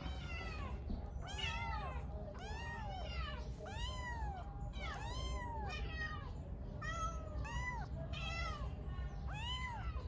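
A kitten meowing again and again, about one high call a second, each call rising and then falling in pitch.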